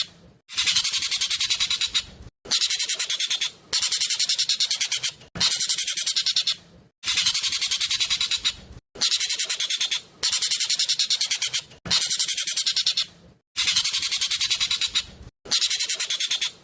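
Jovin (ekek keling) bird singing loudly in fast, tight phrases of rapidly repeated high notes. Each phrase lasts about a second and a half, with short pauses between them.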